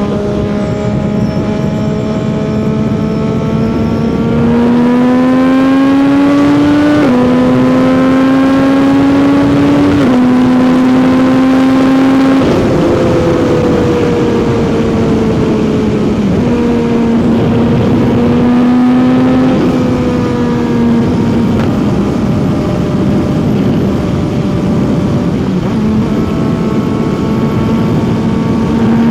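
CFMOTO 675 motorcycle's inline three-cylinder engine and exhaust under way on the highway: the engine note climbs and drops sharply at gear changes about 7 and 10 seconds in, then eases off and settles into a fairly steady cruise.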